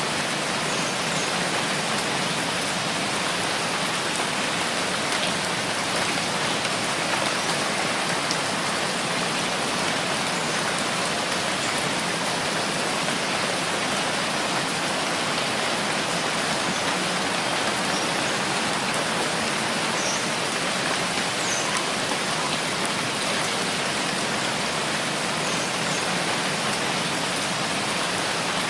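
Steady rainfall, an even hiss of rain coming down without let-up.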